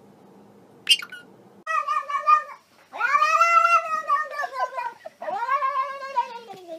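A calico domestic cat yowling: three long, drawn-out wails, the last falling in pitch. A brief sharp, high chirp comes about a second in, before the yowls.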